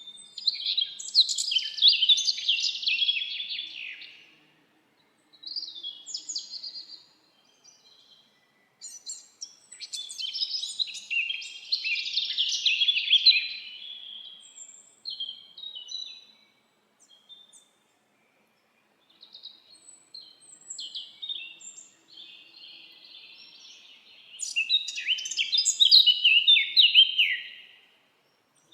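Songbirds singing in a forest: bursts of rapid, high chirping phrases a few seconds long, with short silent pauses between them.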